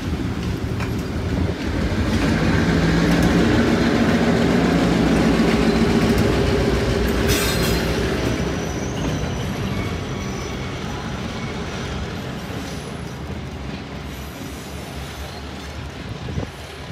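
A diesel locomotive and its train passing on the rails: the engine's hum and the wheel noise grow louder, are loudest a few seconds in, then fade away gradually.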